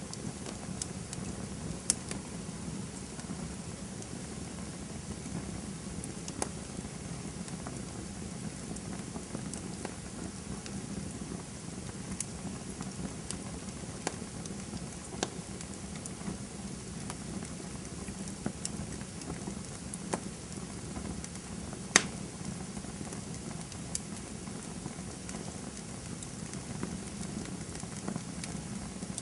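Campfire burning: a steady low noise of the flames with scattered sharp crackles and pops, the loudest about 22 seconds in.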